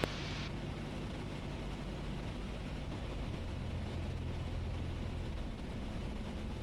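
Cessna 172S's four-cylinder Lycoming engine and propeller droning steadily in the cabin on final approach, with a low hum that swells for a couple of seconds mid-way.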